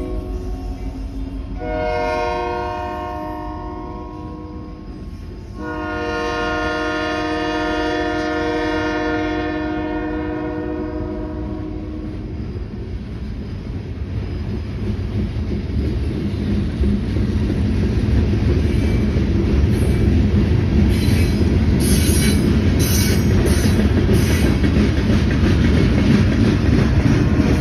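Union Pacific freight train sounding its diesel locomotive air horn in long blasts: one ends about a second in, another runs from about two to five seconds, and a longer one from about six to twelve seconds. After that the freight cars roll past, their wheels rumbling and clacking on the rails, growing louder toward the end.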